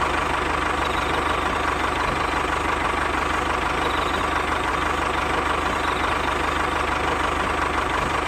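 An engine idling steadily, with a fast even low rhythm and a faint steady whine above it.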